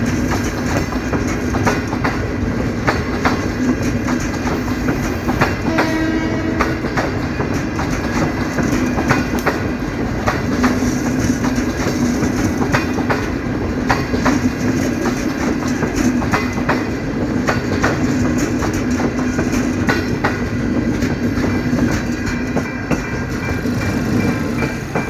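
Passenger train's CNR coaches rolling past, wheels clicking steadily over the rail joints, with a brief pitched squeal about six seconds in.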